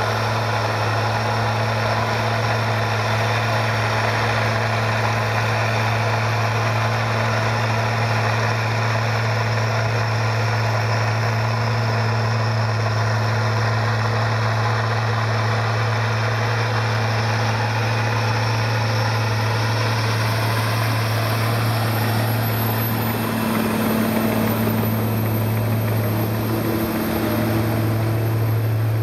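Komatsu bulldozer's diesel engine running steadily, with a brief wobble in its pitch about three-quarters of the way through.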